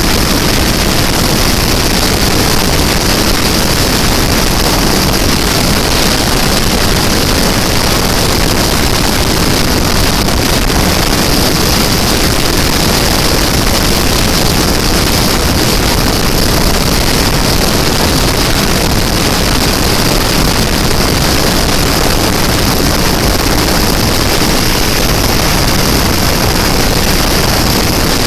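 Ural M-62 motorcycle's flat-twin engine running steadily at road speed, mixed with steady road and wind noise.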